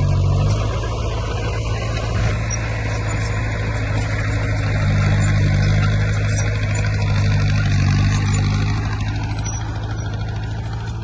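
Heavy diesel earthmoving machinery running steadily, its engine a low, even drone, a little louder in the middle.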